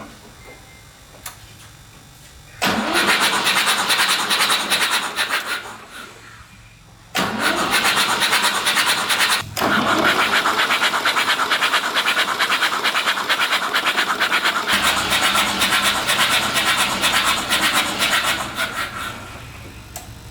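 An engine starting and running with a rapid pulsing beat. It runs about three seconds and stops, then starts again and keeps running, fading near the end.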